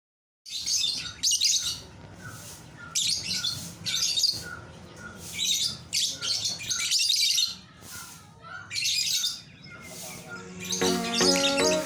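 Small birds chirping in quick repeated bursts, with a row of short repeated notes beneath them; background music starts near the end.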